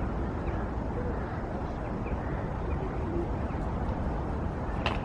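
Steady outdoor background noise with a low rumble, a few faint short chirps, and a single sharp click near the end.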